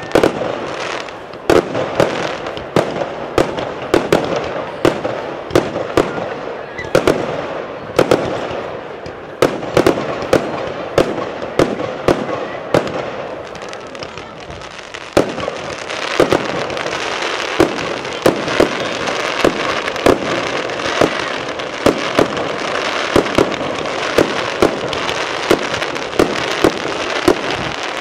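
Fireworks display: a rapid run of sharp bangs, several a second, over a continuous crackle. The barrage thins briefly about halfway through, then grows denser.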